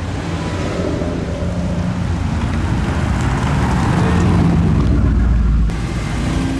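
Car engine running, growing louder over several seconds, then dropping off suddenly near the end.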